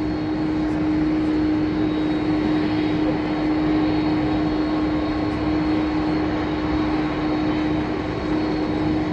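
Jet airliner noise from a Boeing 787 on short final approach: a steady rushing drone with a constant hum and no clear rise or fall.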